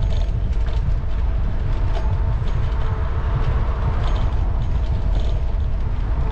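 City-street noise from a moving bicycle: a steady low rumble of road and wind with light rattling clicks, and a swell of passing traffic about halfway through.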